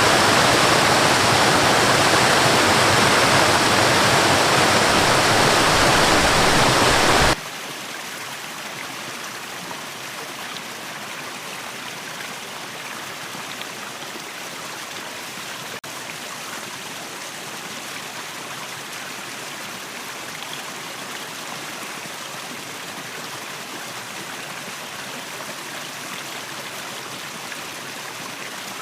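A waterfall's rushing water, loud and steady. About seven seconds in it cuts suddenly to a much quieter, thinner flow of water that carries on evenly.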